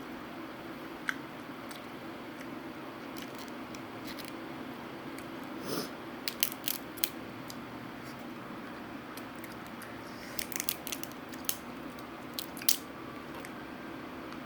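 Close-up eating sounds: sharp crunches and clicks of biting and chewing, bunched in two clusters about six and about ten to thirteen seconds in, over a steady low room hum.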